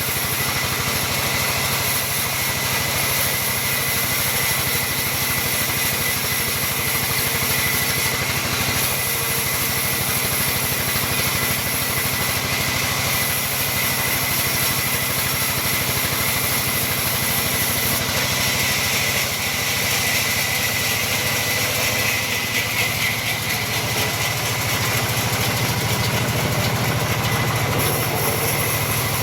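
Sawmill machinery running steadily while sawing mahogany timber.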